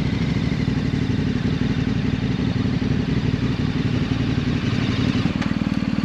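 Motorcycle engine running, then dropping to a slow, even idle about five seconds in.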